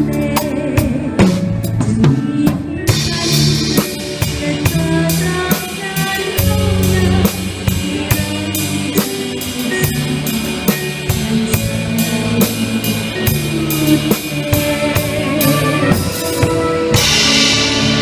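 An orchestra playing an instrumental passage, with a drum kit keeping a steady beat over sustained bass and melody notes. A cymbal crash comes near the end.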